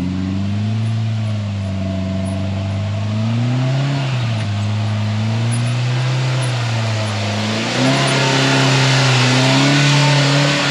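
Polaris RZR Pro R side-by-side's four-cylinder engine running under changing throttle, its pitch rising and falling as it is driven. A hiss grows louder over the last few seconds.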